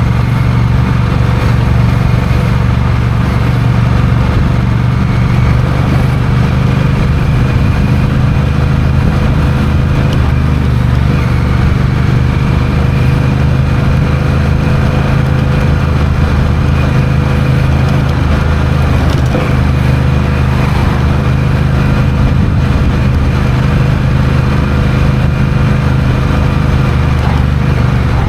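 Honda CMX1100 Rebel's parallel-twin engine running at a steady, nearly constant speed while the bike is ridden, with a faint steady whine above the engine note.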